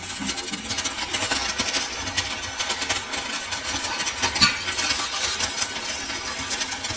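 A machine running steadily with a dense, rough mechanical noise, and one sharper click about four and a half seconds in.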